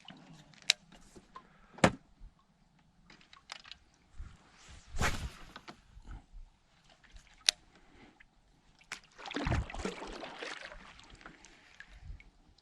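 A sit-on-top plastic fishing kayak being shifted about on the water: several sharp knocks and bumps on the hull, with water sloshing and a longer rush of movement and water about ten seconds in.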